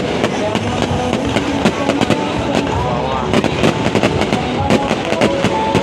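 Fireworks going off in quick succession: a dense run of sharp bangs and crackles, with a few short whistling pitch glides among them.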